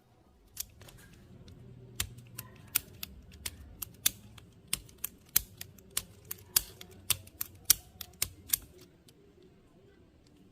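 A run of about twenty sharp, irregular clicks and snaps of small hard parts being handled, over a faint low hum, stopping after about eight and a half seconds.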